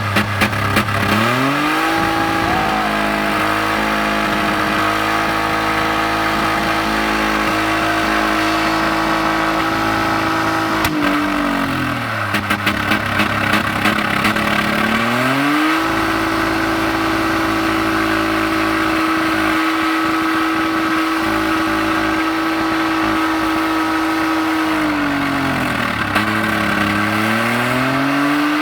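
Ford Windstar's V6 engine held flat out at a high, steady pitch, deliberately over-revved to destroy it. It falls back twice and revs straight back up, with a burst of rapid clattering as the revs drop about 11 seconds in.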